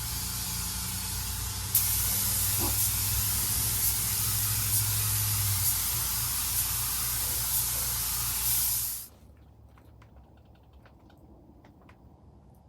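Paint spray gun hissing steadily as it lays on a coat of base color mixed with clear, a single-stage paint. The hiss grows louder about two seconds in and cuts off abruptly about nine seconds in.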